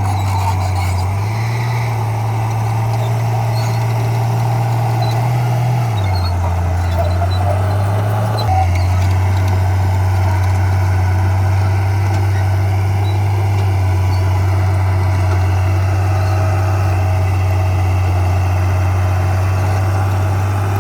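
Heavy diesel engine of earthmoving machinery running steadily, its low hum stepping up in pitch about a second in, dropping around six seconds, then holding a steady pitch as the load changes.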